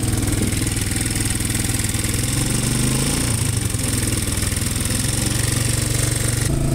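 Antique tractor engine running steadily close by, a low pulsing note that dips slightly in pitch about three seconds in.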